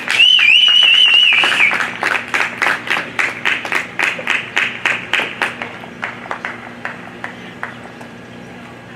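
Scattered spectators applauding at the end of a reining run, with a loud warbling whistle of approval in the first second or two. The clapping thins out and stops about three-quarters of the way through.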